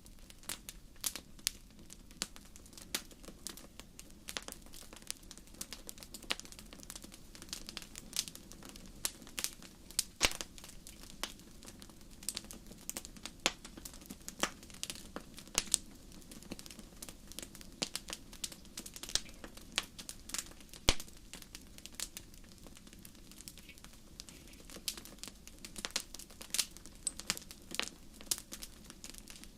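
Wood fire crackling: irregular sharp snaps and pops, several a second, over a steady low rumble of the burning fire.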